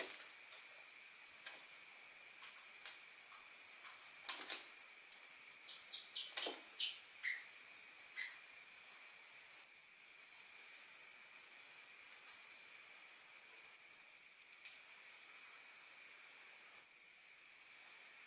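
Orange-headed thrush giving its high, thin 'ngecis' call, a short falling whistle repeated five times a few seconds apart. This is the call played as a lure to draw a male thrush in.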